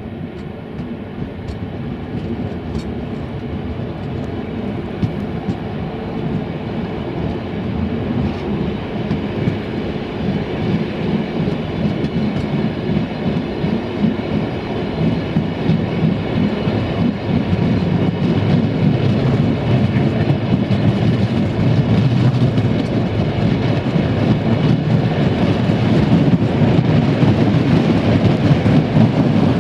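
Passenger train coach rolling on the rails: a steady rumble of the wheels with faint clicks over the rail joints, growing steadily louder as the train picks up speed.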